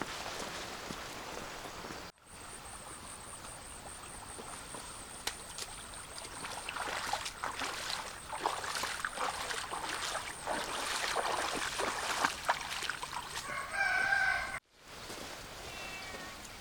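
Farmyard sound: rustling and crackling with many small clicks, over a steady high whine. Near the end a rooster crows once for about a second, the loudest sound, and it breaks off abruptly.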